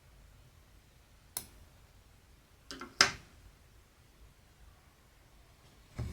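A few sharp clicks and taps from handling cross-stitch supplies. There is one click, then a quick cluster of them about three seconds in, the last of these the loudest. A duller knock comes near the end.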